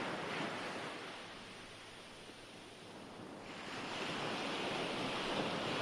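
Recorded ocean waves washing on a shore, a steady surf hiss that ebbs about two seconds in and swells again as the next wave comes in.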